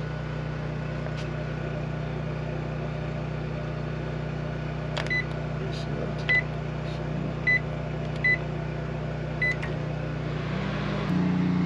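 Microwave oven running with a steady hum, heating food. A click about five seconds in is followed by about five short, high electronic beeps over the next four seconds.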